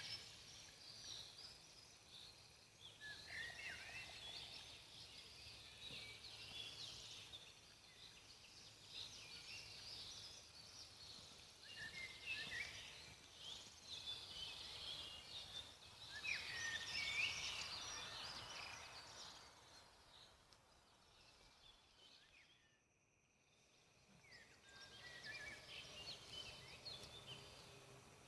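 Faint chorus of small birds chirping and singing, many short high calls overlapping. The sound fades almost to nothing a little after twenty seconds in, then returns.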